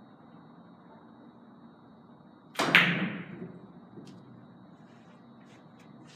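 A three-cushion carom billiards shot. The cue strikes the ball with a sharp double click, followed by a few fainter clicks of the balls over the next few seconds.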